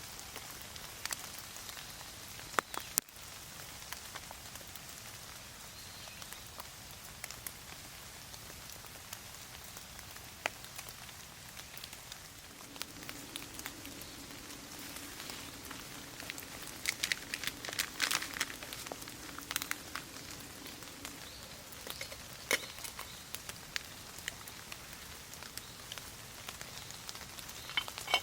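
Steady rain falling on trees and wood, an even hiss with separate close drops ticking, thickest for a few seconds past the middle. A faint low steady hum sounds through the middle stretch.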